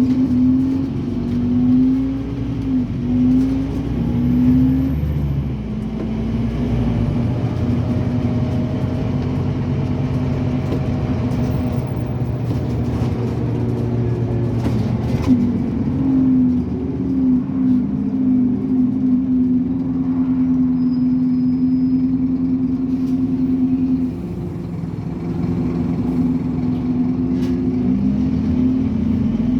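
Scania N270UD OmniCity double-decker bus heard from on board, its diesel engine pulling hard. The engine note rises and falls several times as it works up through the gears, and it eases off briefly about three-quarters of the way through.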